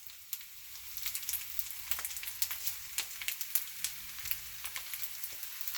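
Stir-fry of meat and vegetables sizzling in a hot pan: a steady hiss with many small, sharp crackles.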